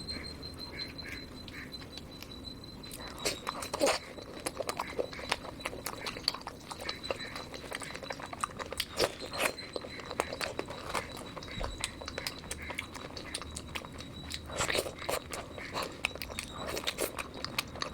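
Close-miked eating sounds: irregular wet mouth clicks and smacks of chewing food, over a faint steady high-pitched tone.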